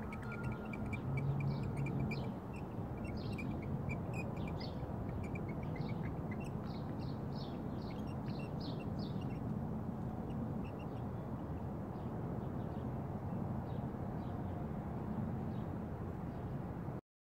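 Small birds chirping in short, high calls, with a quick run of chirps about seven to nine seconds in, over a steady outdoor background of wind and distant noise.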